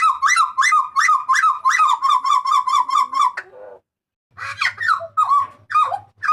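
Papuan butcherbird (jagal papua) calling loudly: a rapid run of repeated sharp notes, about four a second, for some three seconds. After a short pause it gives a slower series of downward-sliding notes.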